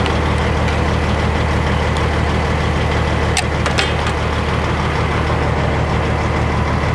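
Kenworth W900L semi truck's diesel engine idling steadily, with two sharp clicks about three and a half seconds in.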